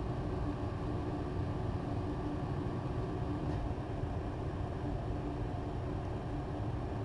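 A steady low rumbling hum with a faint steady tone, unbroken throughout.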